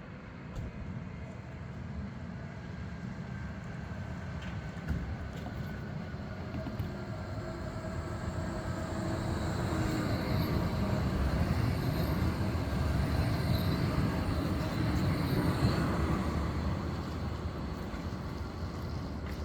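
Škoda 52T ForCity Alpha tram running on its tracks. It grows steadily louder over the first dozen seconds and eases slightly near the end, with faint whining tones above a low rumble.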